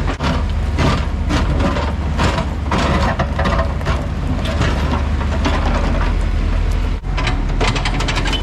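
Heavy diesel construction equipment running steadily, with a string of knocks and scrapes from debris being worked. There is a short break about seven seconds in.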